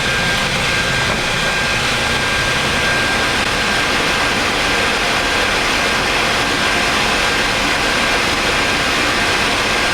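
Steady flight-deck noise of a Boeing 737 MAX slowing on the runway after landing: engines back at idle after reverse thrust, with a thin steady whine.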